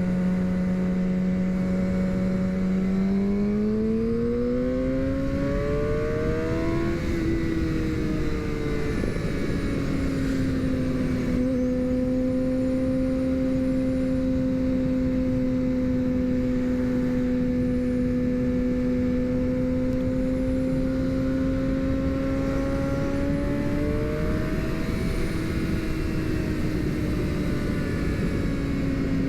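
Suzuki GSX-R750 inline-four motorcycle engine running while riding, with steady wind rush. The engine note holds steady, climbs in pitch from about three seconds in, eases back down by about ten seconds, then holds steady again with a brief small rise about twenty-four seconds in.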